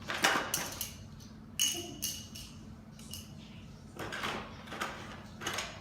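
Plastic toy pieces and packaging being handled and taken out of a box: a few irregular clicks, knocks and rustles, some with a short plastic ring.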